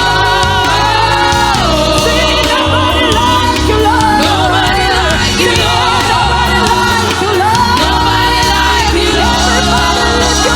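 Church choir singing a gospel worship song with band accompaniment, the voices holding long, gliding notes over a steady bass.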